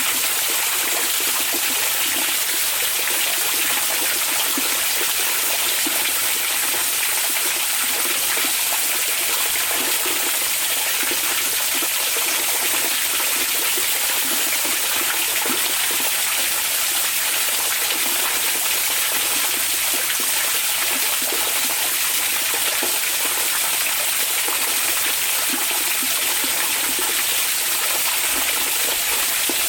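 Hot spring water flowing in a steady, even rush, with no change throughout.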